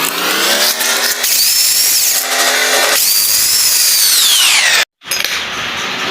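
Power tool's electric motor whining, its pitch rising and falling as it speeds up and slows under load. It cuts off abruptly about five seconds in, and a quieter mechanical noise follows.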